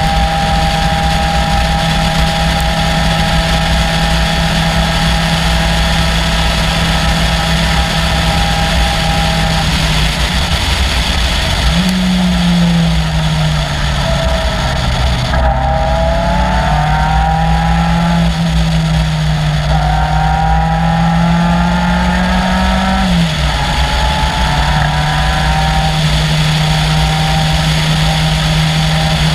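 Caterham Seven's 2.3-litre Ford Duratec four-cylinder engine running at steady revs, then rising and dropping several times through the middle as the throttle and gears change, before settling back to steady revs near the end.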